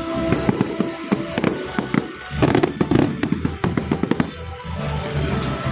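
Fireworks display: a dense, irregular run of bangs and crackles from bursting shells, with music playing underneath.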